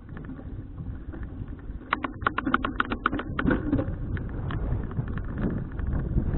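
Bicycle on the move, with wind and road rumble on the action-cam microphone; about two seconds in comes a fast run of sharp clicks lasting about a second, then a few scattered clicks.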